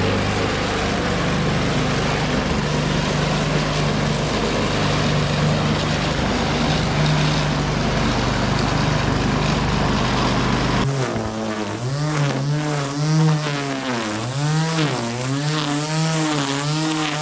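Petrol lawnmower engine running steadily. About eleven seconds in it cuts off abruptly and gives way to a pitched sound whose pitch rises and falls about once a second.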